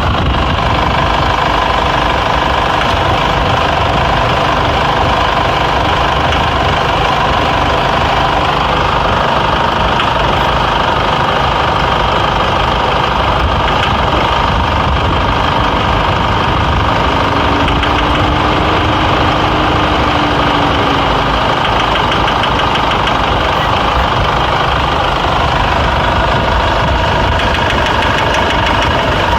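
Car engine running steadily at idle. Dealership staff claimed the engine was absolutely healthy, and the title doubts that it sounds healthy.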